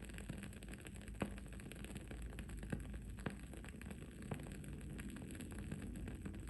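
Wood-wick candle crackling: irregular small pops, with a few sharper ones about a second in and around three seconds in, over a steady low background noise.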